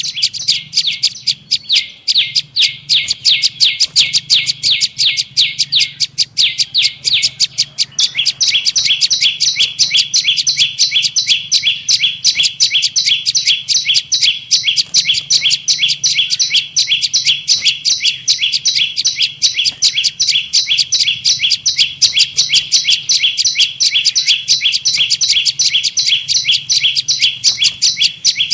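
Prenjak lumut lure call: rapid, evenly repeated high chirps, several a second, going on without a break and shifting slightly in pattern about a third of the way in. This is the kind of calling played to lure prenjak in for trapping. A faint low hum runs underneath.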